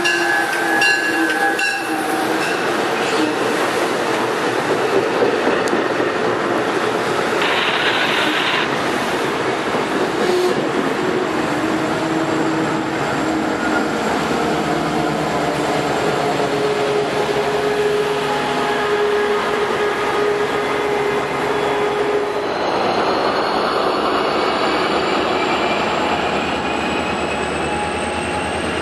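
MARC commuter train passing at speed: bilevel cars rumbling and clacking over the rails, with the MP36PH-3C diesel locomotive pushing at the rear going by with its engine running partway through. Near the end the sound changes to a thin whine rising steadily in pitch from another train.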